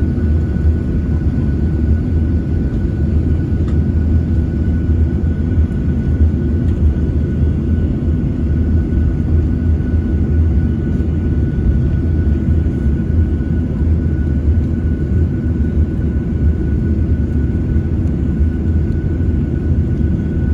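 Cabin noise inside a Boeing 737-900ER: a steady low rumble with a thin, steady high whine above it, with no change in pitch or level.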